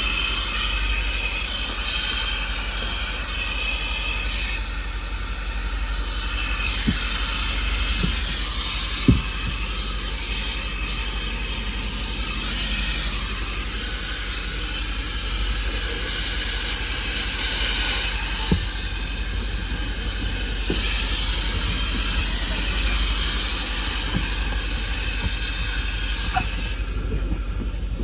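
Car wash vacuum running steadily, its hose sucking at a car's floor, with a few short knocks of the nozzle, the loudest about nine seconds in.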